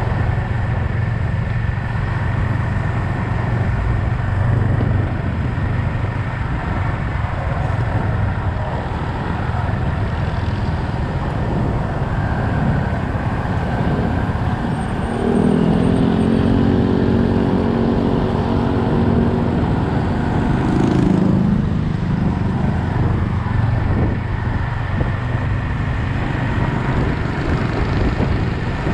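Yamaha XSR 155's single-cylinder engine running under way in city traffic, with road and wind noise around it. For about six seconds in the middle a louder, steadier engine note comes up.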